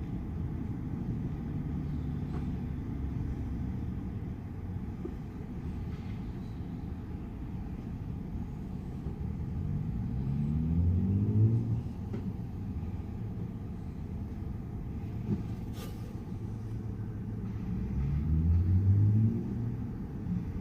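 A steady low engine rumble whose pitch rises twice, each time over a second or two, as it speeds up, with a single sharp click in between.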